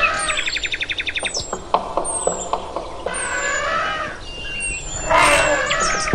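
Birds chirping: short high falling chirps and a rapid trill in the first second. A loud, harsh noisy call cuts in about five seconds in.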